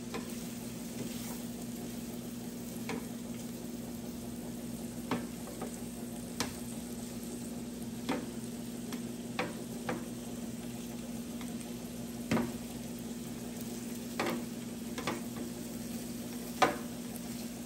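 Shrimp frying in garlic butter on an electric flat-top griddle, a steady sizzle broken by about a dozen sharp clicks and scrapes as metal spatulas chop and turn the pieces.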